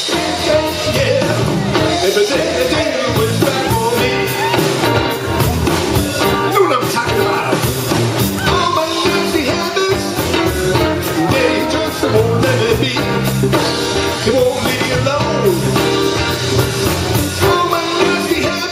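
A blues band playing live, full band sound that runs on without a break.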